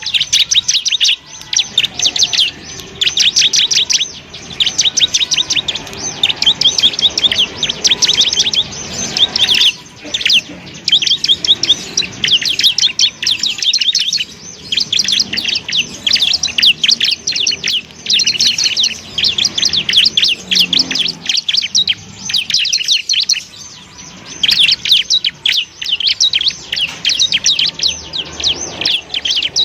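Bar-winged prinia (ciblek) singing: fast, high trills in bursts of a second or two with short gaps, repeated without pause.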